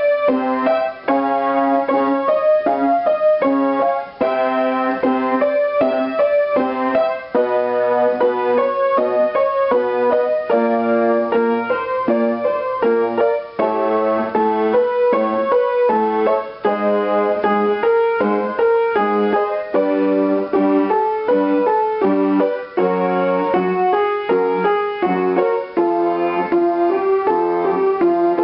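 Electric piano playing a vocal warm-up pattern of sustained notes, the phrase repeated about every three seconds and shifting in pitch each time, with a voice humming a closed-lip "mmm" along on the same notes.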